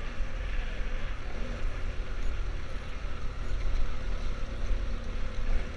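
Adventure motorcycle on the move, its engine and the wind buffeting the microphone making a steady, unsteady low rumble with a hiss above it.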